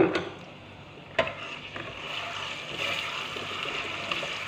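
A metal ladle knocks against the frying pan at the start and again about a second in. Then a blended mixture sizzles in hot oil, the sizzle building to a steady hiss.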